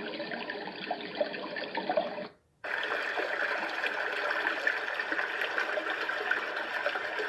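White noise machine's speaker playing a recorded babbling brook: steady trickling, running water. About two and a half seconds in, it cuts out for a moment and a different, brighter running-water track starts, the machine switching to its next stream sound.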